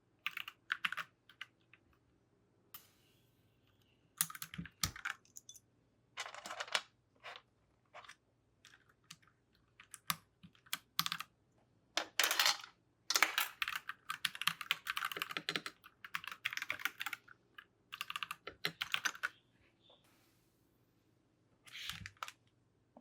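Typing on a mechanical keyboard fitted with freshly swapped keycaps: runs of quick key clicks in bursts, with a couple of short pauses, the longest run in the middle.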